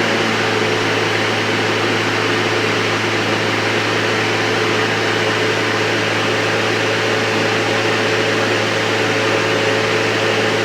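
Senix LPPX5-M 58-volt cordless electric lawn mower running steadily at full speed: its brushless motor and spinning blade give a steady low hum over an even rush of air.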